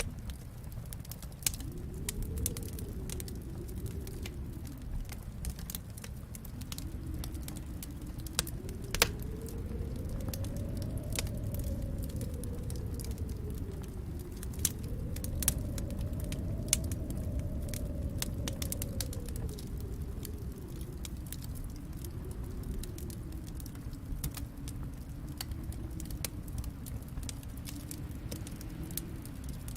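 Wood fire in a fireplace crackling, with irregular sharp pops, the loudest about nine seconds in. Underneath runs a low rushing noise that swells and fades in slow waves every few seconds.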